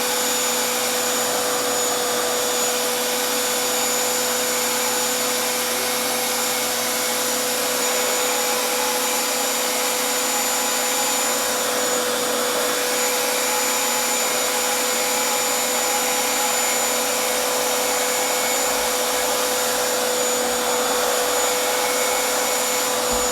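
RevAir reverse-air hair dryer running on low speed, its suction pulling a damp section of hair into the wand. A steady rush of air with a constant hum and a thin high whine, unchanging throughout.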